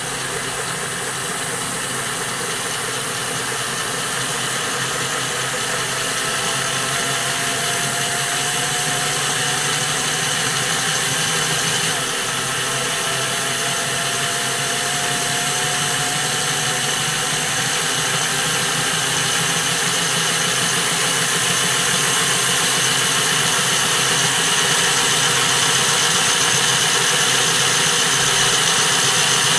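Hornby Flying Scotsman model locomotive running on a rolling road: its electric motor and gears give a steady whirr that grows gradually louder, with a faint whine slowly rising in pitch.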